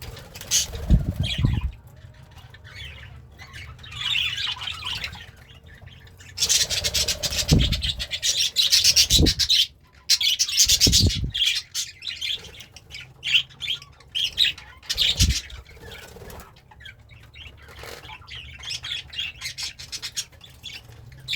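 Budgie chattering and warbling in bouts of rapid high-pitched clicks and chirps, broken by quieter pauses, with a few dull thumps.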